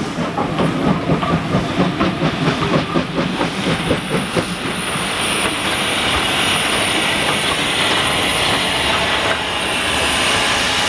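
Steam train on the move: a rapid clatter of wheels on the track for the first few seconds, giving way to a steady hiss of steam.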